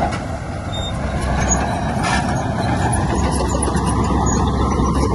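Heavy diesel earthmoving machinery running steadily with a dense low rumble. A faint steady whine comes in about halfway through.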